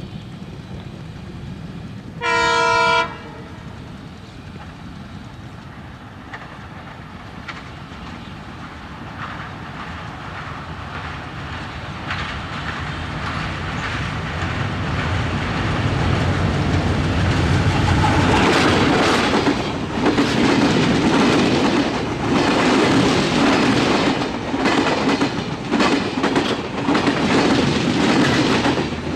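Diesel locomotive-hauled express train sounding one short horn blast about two seconds in, then rumbling closer over a steel girder bridge, louder and louder. For the last ten seconds it rushes past close by, with the wheels clacking rhythmically over the rail joints.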